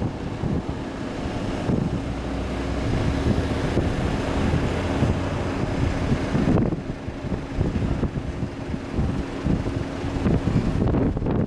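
Boeing 737 jet engines at takeoff power, a loud steady jet noise with wind buffeting the microphone; the hiss thins out near the end.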